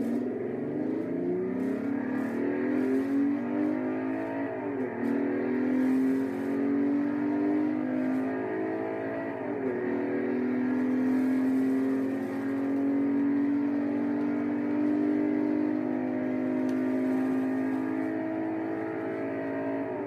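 1969 Ferrari Dino 246 GT's 2.4-litre V6 accelerating hard through the gears. Its pitch climbs, drops at an upshift about four and a half seconds in and again about nine and a half seconds in, then rises more slowly in a long pull until another shift near the end.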